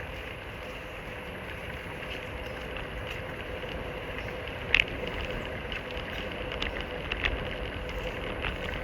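Steady rushing noise of wind and tyres while riding a bicycle, with a few sharp clicks and rattles, the loudest about five seconds in.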